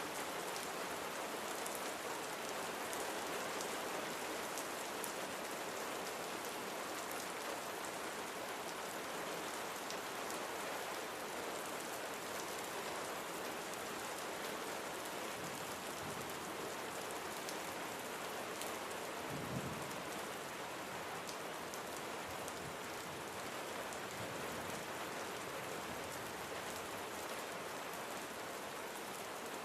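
Steady rain falling on a surface, an even hiss with scattered individual drops, and one brief low thud about two-thirds of the way through.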